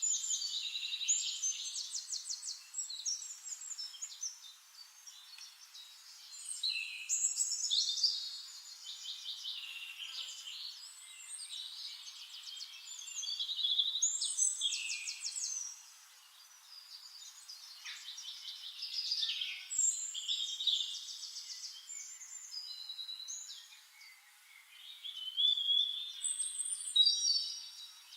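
Songbirds singing: many high chirps and fast trills, rising and falling in swells every few seconds.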